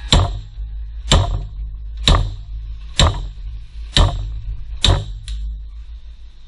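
Hammer striking metal, six even blows about a second apart, each with a short metallic ring, over a steady low hum.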